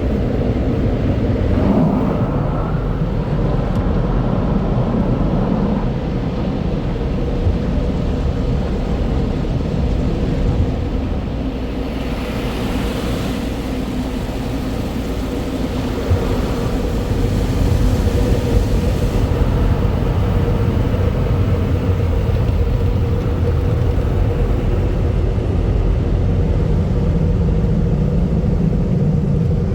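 Conveyor car wash tunnel equipment heard from inside the car: a steady rumble with a constant hum. A rush of higher-pitched noise, like water spray or brushes on the car, rises about twelve seconds in and stops about seven seconds later.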